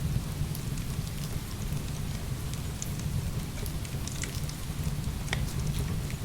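Heavy rain pouring steadily with a deep rumble, mixed with a wood fire crackling in scattered sharp pops, one of the clearest about five seconds in.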